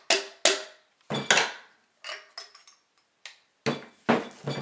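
Metal parts of a Bostitch T28 nailer, its piston and cylinder among them, being handled and set down on a hard surface: a dozen or so irregular clinks and knocks, a few ringing briefly.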